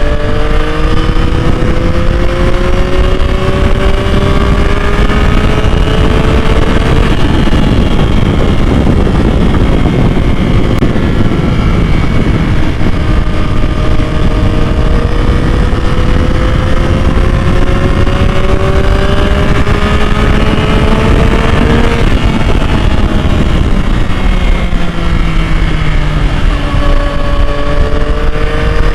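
Yamaha MT-09's 890 cc inline-three engine pulling in long steady climbs of rising revs, the pitch falling back a few times between pulls, over a steady rush of wind and road noise.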